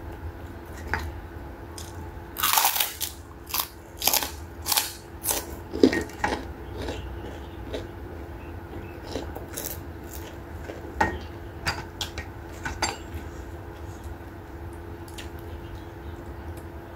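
A person chewing crunchy food close to the microphone. A run of loud crunches comes about two to six seconds in, then scattered softer crunches and mouth clicks until about thirteen seconds in.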